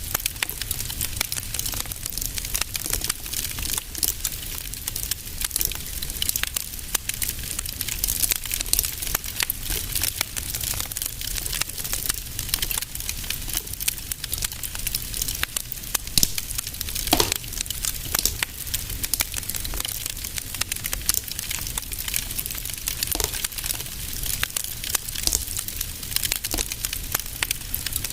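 Wood fire crackling in a fireplace: a continuous stream of small crackles over a low rumble, with a few louder pops, the strongest about halfway through.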